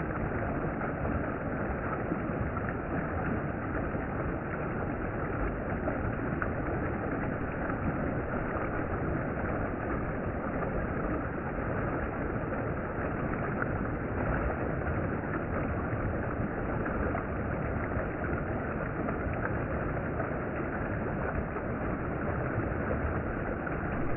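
Mountain stream water rushing over rocks in a steady, unbroken wash.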